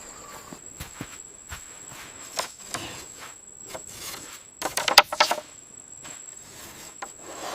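Steady high-pitched insect chirring, with scattered knocks and a burst of louder clattering about five seconds in.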